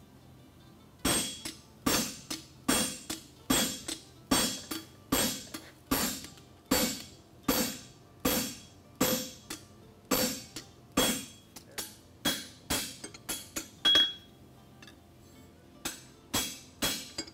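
A farrier's hammer striking a hot steel horseshoe on the anvil, shaping a hind shoe: a steady run of blows about one to two a second, each with a metallic ring, pausing briefly near the end before a few more blows.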